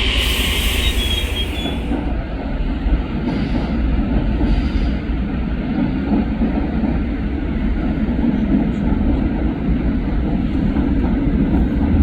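A train running through the station with a steady rumble. A high hiss fades out in the first two seconds.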